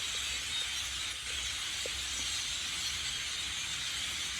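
A large flock of blackbirds calling all at once: a dense, steady din of many overlapping high chatters and squeaks, with no single call standing out.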